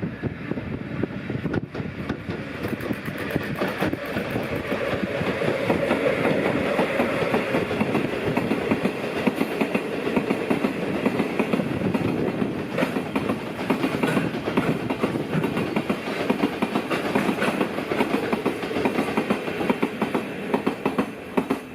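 Freight train hauled by an ED45 electric locomotive passing close by, its steel wheels clattering over the rail joints in a dense run of clicks that builds a couple of seconds in and carries on throughout.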